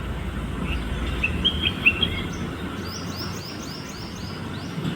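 Bird chirping: a few short high whistled notes, then a quick run of rising chirps, about three a second, over a steady low hum of background noise.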